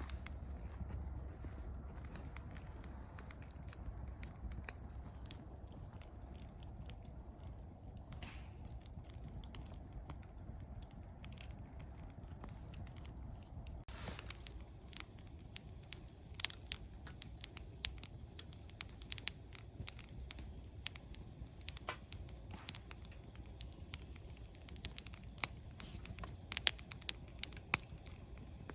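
Wood campfire crackling: irregular sharp pops and snaps over a low steady rumble, becoming more frequent and louder about halfway through.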